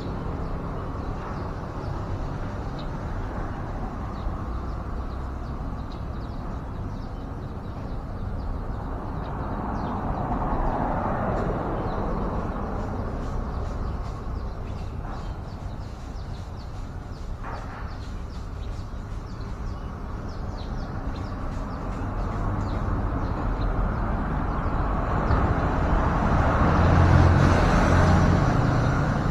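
Steady low rumble of road traffic going by outside, swelling about a third of the way in and again near the end as vehicles pass, with faint high ticks over it.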